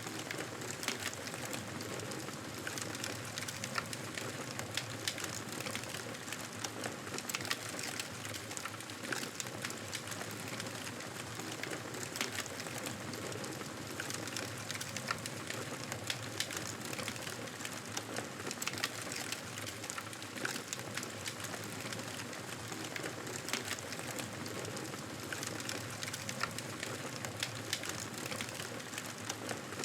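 Wood fire crackling steadily, a constant hiss scattered with many small sharp pops and snaps.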